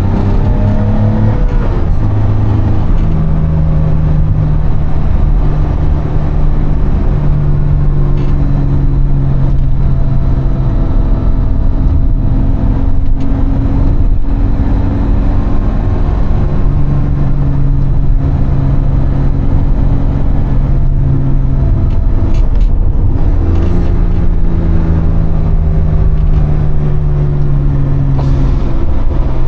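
BMW E30 325i's 2.5-litre M20B25 straight-six through an Eisenmann race exhaust with the catalytic converter deleted, running under way at steady throttle. The engine note rises and drops with a gear change in the first couple of seconds, and again about 23 seconds in, then holds steady.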